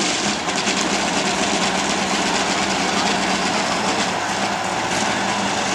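Diesel pickup truck engine running at a steady pitch, a constant drone under a wide rushing noise.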